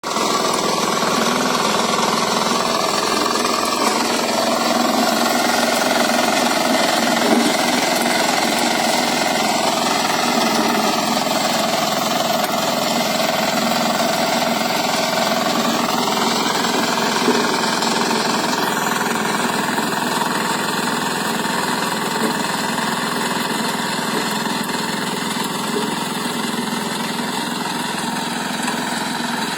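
A 7.5 hp power tiller's engine running continuously at a steady level.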